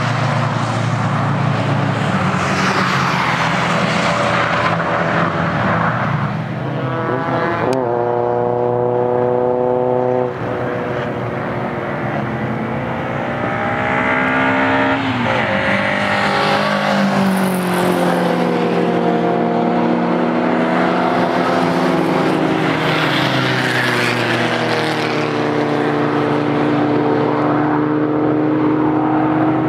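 Several cars' engines at speed on a racing circuit, revving hard and changing gear. Partway through, one engine note climbs steeply, holds high and then cuts off abruptly as the throttle lifts. After that, several engine notes overlap and slowly fall in pitch as the cars come past.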